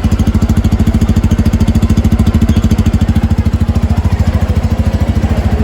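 Bajaj Pulsar N250's 249 cc single-cylinder engine idling with a steady, rapid, even exhaust beat; a sound the rider calls very good.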